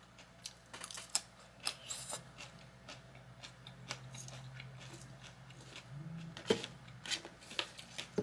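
Close-miked chewing: scattered wet mouth clicks and small crunches at an uneven pace, over a faint steady low hum.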